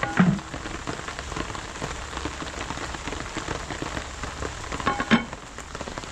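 Steady rain falling and pattering as many small drops. Two brief knocks stand out, one just after the start and one near the end.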